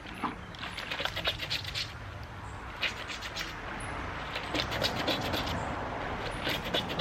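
Clothes being scrubbed together by hand in a bath pan of wash water. The rubbing comes in four bursts of quick, scratchy strokes with short pauses between.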